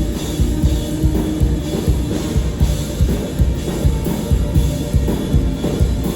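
Band playing live, with a drum kit's kick drum pounding out a fast, steady beat under the rest of the band.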